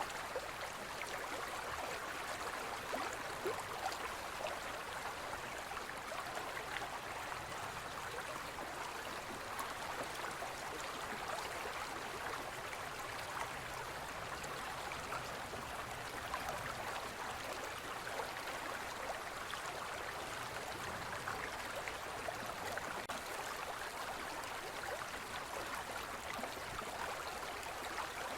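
Small forest river flowing steadily over stones, a continuous even babbling rush of water.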